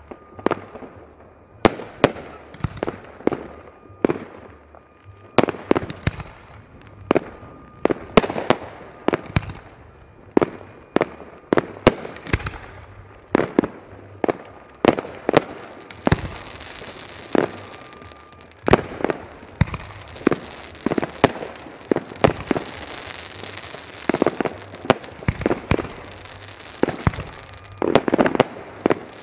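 Fireworks going off: many sharp bangs at irregular intervals, several a second at times, with crackling from about halfway through.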